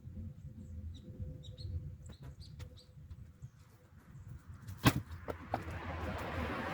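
Split firewood being stacked: one sharp wooden knock about five seconds in, then a few lighter knocks and a scraping rustle. Faint bird chirps come before it.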